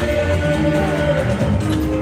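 Live Yoruba fuji band music with held instrumental notes over a steady low beat.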